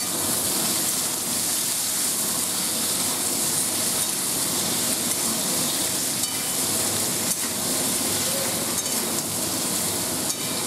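Cubes of elephant foot yam sizzling steadily as they fry in hot mustard oil in a metal kadai, stirred now and then with a steel spatula.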